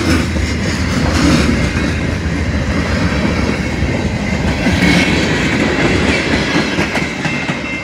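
Freight cars of a passing train (covered hoppers, a boxcar, a centerbeam flatcar and a tank car) rolling by, steel wheels clattering over the rail joints with a continuous rumble. A thin high tone rises over it about five seconds in and again near the end.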